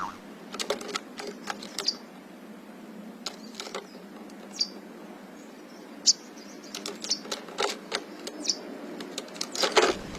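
Small birds giving short high chirps, about half a dozen, among irregular sharp clicks and taps, over a steady low hum.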